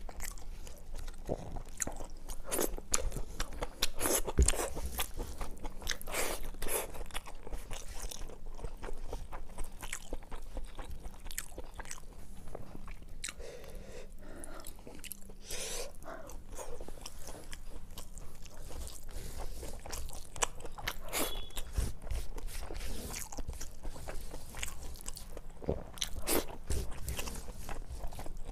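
Close-miked chewing and crunching of a mouthful of fried fish and rice eaten by hand, with irregular crisp crunches throughout.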